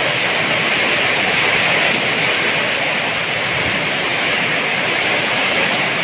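Very heavy rain pouring down steadily in a windstorm.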